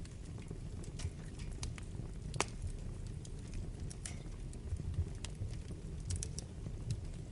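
Wood fire burning in a fireplace: a steady low rumble of the flames with irregular sharp crackles and pops, one louder pop about two and a half seconds in.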